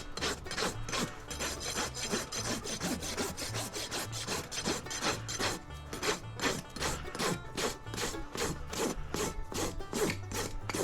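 Farrier's rasp filing a horse's hoof wall in rapid, regular strokes, about two to three a second, dressing back the flare.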